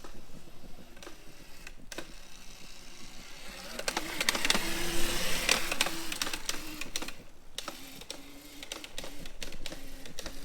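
Razor MX350 electric dirt bike's chain-driven motor running, a faint whine that rises and falls in pitch over a busy chain and frame rattle, loudest about four to six seconds in.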